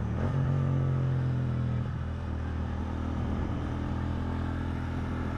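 Motorcycle engine running steadily while riding, under wind and road noise; the engine note is a little stronger in the first couple of seconds.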